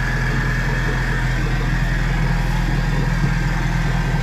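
Ford Focus RS Mk3's turbocharged 2.3-litre four-cylinder idling steadily through a straight-piped exhaust with the muffler removed, a loud, even exhaust note.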